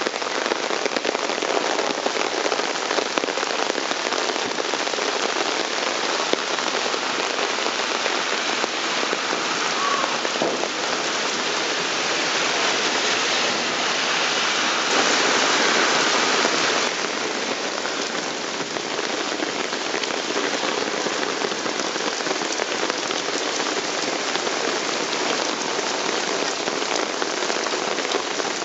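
Heavy rain pouring down onto the street and pavement, a steady dense hiss of falling water that swells louder for a couple of seconds around the middle.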